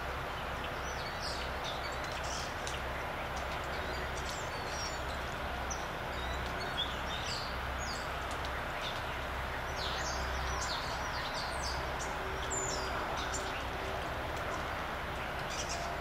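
Small birds chirping, with short high calls scattered throughout, over a steady background hiss.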